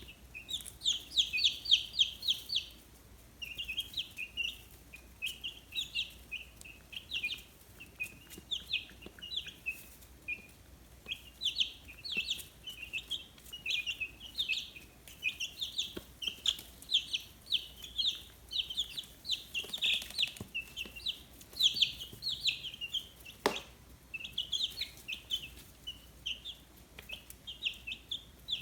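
A brood of 15-day-old chicks peeping: many short, high chirps overlapping without a break.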